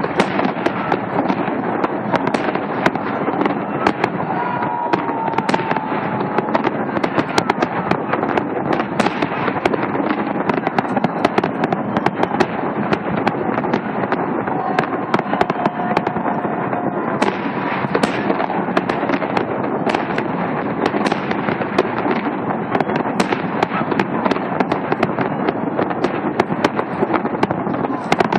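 Fireworks display crackling densely: a near-continuous stream of sharp pops and cracks at a steady loudness, with a few faint whistles.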